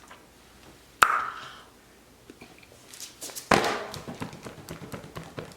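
A sharp click about a second in, then a louder knock about halfway through, followed by scattered light taps and clicks.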